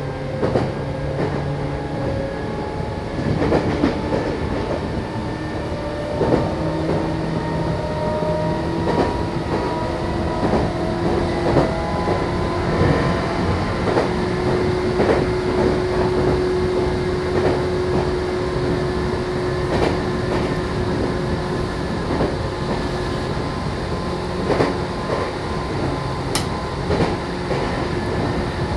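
Meitetsu Bisai Line electric train running between stations, heard from inside the passenger car. Wheels click over rail joints against a steady rumble, and a whine rises slightly in pitch over the first half, then holds steady.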